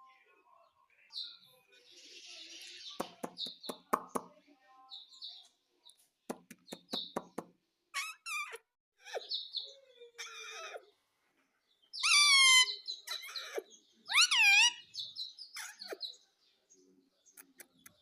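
Pet ring-necked parrot calling: a run of quiet clicks, then short chirps and loud squawks that dip and rise in pitch, the loudest ones about two seconds apart in the second half.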